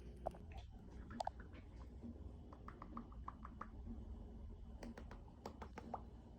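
Faint scattered clicks and light taps of small objects being handled, a few with a brief ringing tone, over a low steady room hum.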